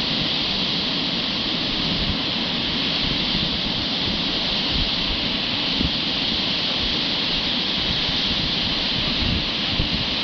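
Fast-flowing whitewater of the Indus River rushing, a steady, even hiss.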